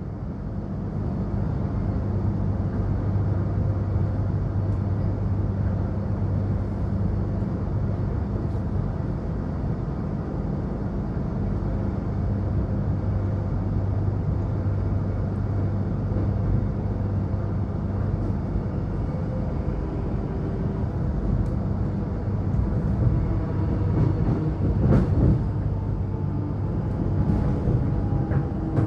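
Suburban electric train running between stations, heard from inside the carriage: a steady rumble of wheels on track with a low steady hum, and a few brief clicks about 25 seconds in.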